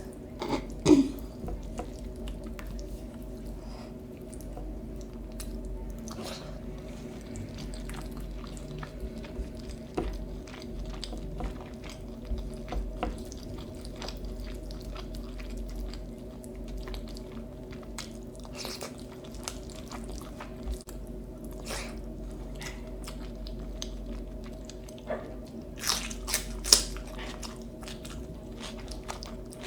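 Close-miked eating sounds: steady chewing and biting with scattered crisp crunches and clicks, a few sharper ones about a second in and near the end, over a steady low hum.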